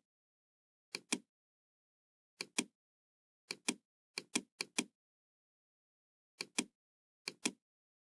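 Computer mouse button clicks, each a sharp click-clack pair as the button is pressed and released, about seven at uneven intervals, with dead silence between.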